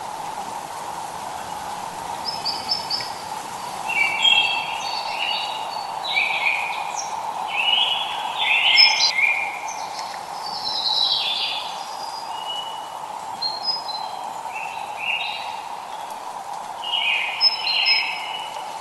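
Songbirds chirping and singing in short, repeated phrases over a steady hiss of light rain, the song busiest near the middle and again near the end.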